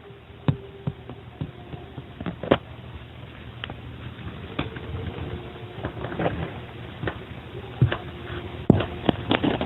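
Scattered short clicks and knocks at irregular intervals, growing more frequent and louder toward the end, over a steady hiss and faint hum in an amplified field recording.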